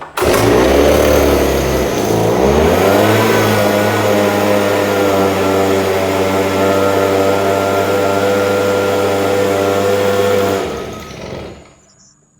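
Stihl BG 86C leaf blower's small two-stroke engine firing on a cold start: it catches at a low speed, revs up within a few seconds and runs steadily at high speed, then winds down and stops after about ten seconds. The owner calls the blower pretty much done and says it would not stay running.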